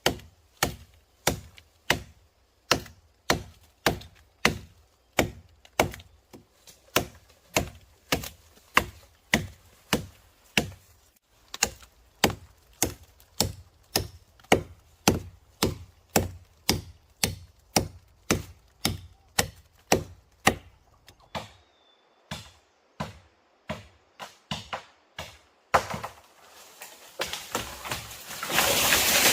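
Steady chopping on wood, a blade striking about twice a second in an even rhythm. The strikes turn lighter and sparser towards the end, and a rushing noise rises in the last few seconds.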